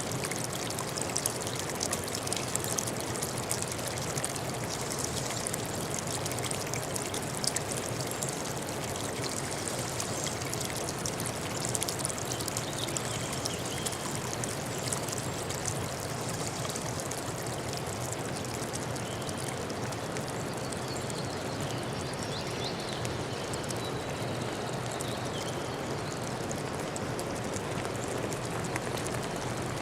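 A stream running steadily, its water trickling and splashing continuously.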